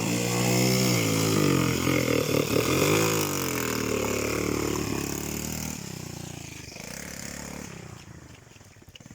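Small motorcycle engine revving up and down in pitch for several seconds as it works through a muddy stretch, then fading away over the last few seconds as it moves off.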